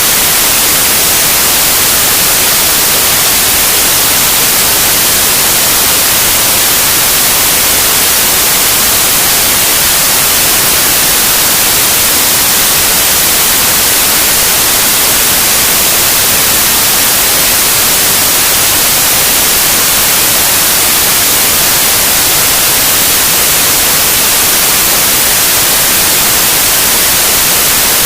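Loud, steady white noise: an even hiss that does not change, strongest in the high treble.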